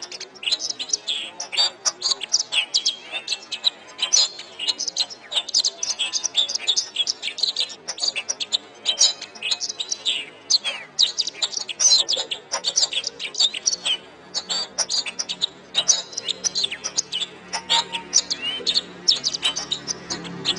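Domestic canary singing a fast, continuous warbling song of rapid chirps and trills. A faint low steady background comes in underneath about two-thirds of the way through.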